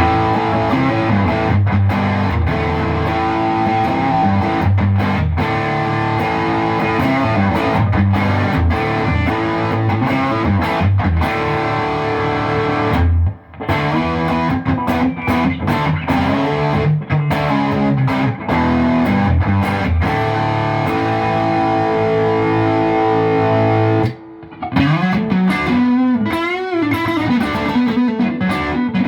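Electric guitar, a Fender Standard Stratocaster with an HSS loaded pickguard, played with a little overdrive: notes and chords ringing, with two short breaks, about halfway through and near the end.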